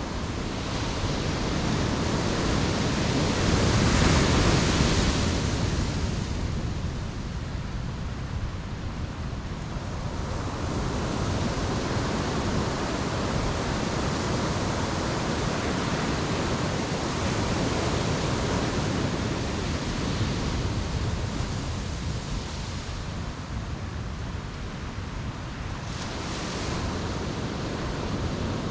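Ocean surf breaking and washing on a beach: a steady rush with a louder surge about four seconds in and another near the end.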